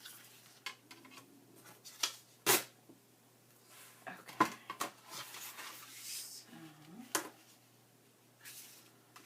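Paper and craft pieces being handled on a tabletop: rustling with several sharp knocks as things are set down or tapped, the loudest about two and a half, four and a half and seven seconds in.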